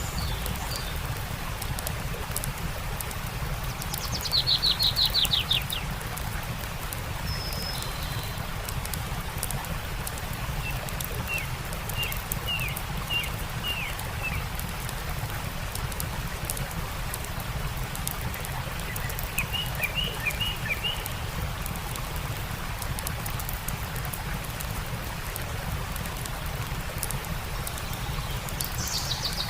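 Steady rush of a stream with a campfire crackling, and songbirds calling over it. A loud rapid trill comes about four seconds in, and series of short chirps follow in the middle and about two-thirds of the way through.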